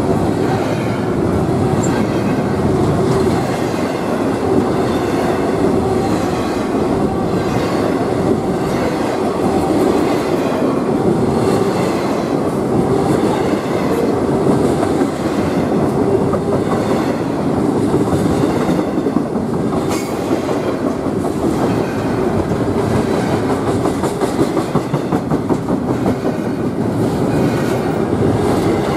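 Double-stack intermodal well cars of a freight train rolling past: a steady loud rumble of steel wheels on the rails, with occasional sharp clicks.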